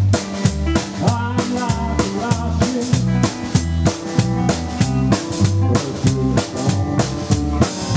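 Live rockabilly trio playing instrumentally: a lead guitar melody over a double bass line, with a drum kit keeping a steady beat of snare and bass drum.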